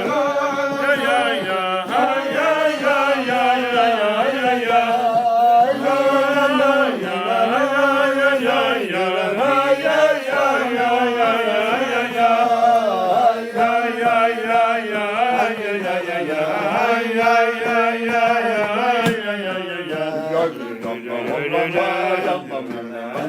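A voice singing a slow, chant-like melody with long held notes that waver and step up and down in pitch.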